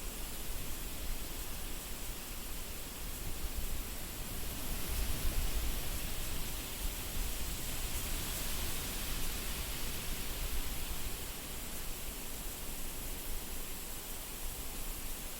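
Wind blowing steadily through grass and reeds as an even hiss over a low rumble, swelling in gusts about a third of the way in and again past the middle.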